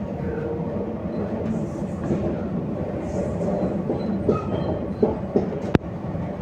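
RER B commuter train running, heard from inside the carriage: a steady rumble of wheels on the rails, with a few knocks in the second half and one sharp click near the end.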